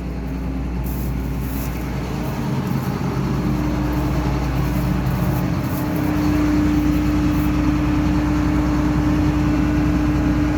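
John Deere 9500 combine running, a steady mechanical drone with a constant hum that grows louder over the second half.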